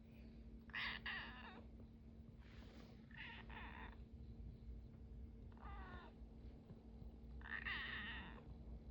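Korean shorthair kitten meowing four times, short wavering calls spaced about two seconds apart.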